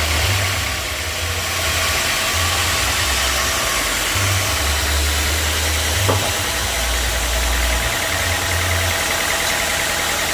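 Sawmill machinery running steadily with an engine-like drone and a low rumble that swells and fades, plus a single sharp knock about six seconds in.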